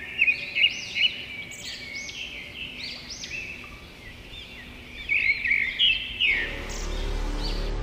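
Songbirds chirping in quick, overlapping high calls, with a low rumble swelling in near the end.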